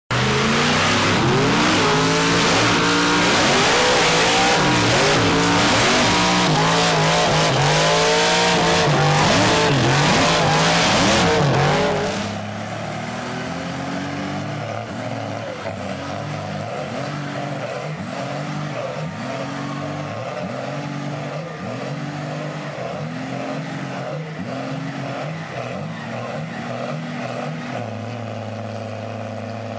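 Off-road pulling trucks running at full throttle, engines revving with tires spinning and squealing, loud for about the first twelve seconds. The sound then drops abruptly to a quieter engine rising and falling in pitch about once a second, settling to a steadier tone near the end.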